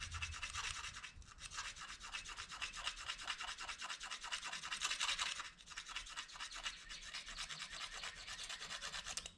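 Plastic fork scraping rapidly back and forth along the edge of a plastic spoon, a fast rasping scrape of many short strokes, with a brief break about a second in, then stopping abruptly.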